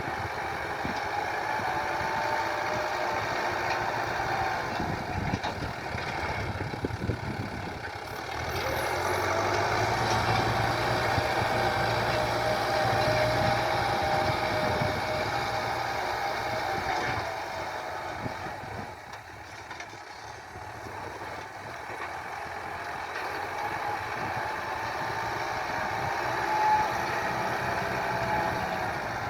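Tractor diesel engine running steadily while ploughing, its sound swelling and easing as the tractor moves: louder about a third of the way in, quieter after about two-thirds, then building again.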